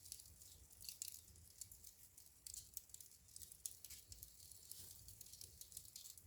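Wood fire crackling in a fireplace: faint, irregular snaps and pops of burning logs over a soft low rumble of the flames.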